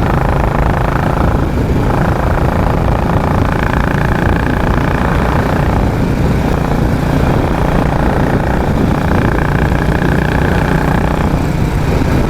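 Royal Enfield Classic 350's single-cylinder engine running steadily under riding, its exhaust giving the beat the rider calls a helicopter sound. The engine is just warming up after standing cold.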